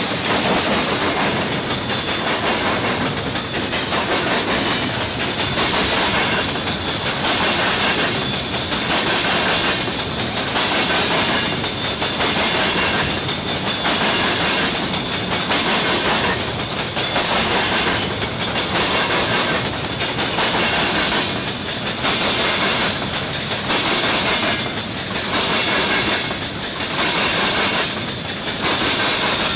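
Freight hopper cars rolling past at close range, their wheels clicking over the rail joints of jointed track in a steady, even rhythm.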